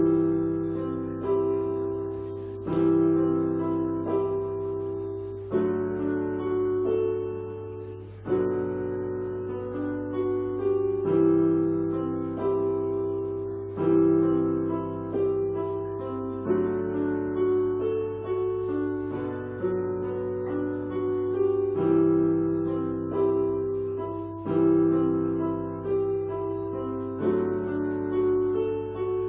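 Solo piano playing a slow passage of chords, each struck every second or two and left to ring and fade, over a steady low hum.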